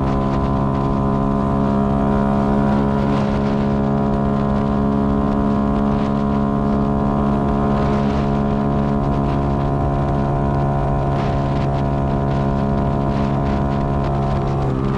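Yamaha Y15ZR's single-cylinder four-stroke engine running at a steady, high cruising speed, with wind and road noise. Its pitch dips near the end as the engine slows.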